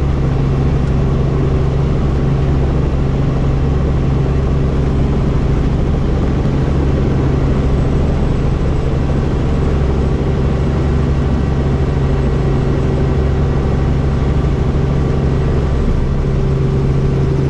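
Helicopter running steadily: an even, loud drone of rotor and turbine with a constant low hum and no change in pitch.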